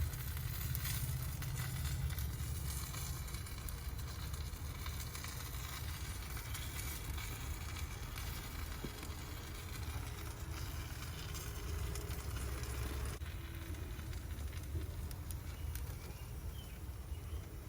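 Pork ribs sizzling on a propane barbecue grill over the flame: a steady hiss with a low rumble underneath.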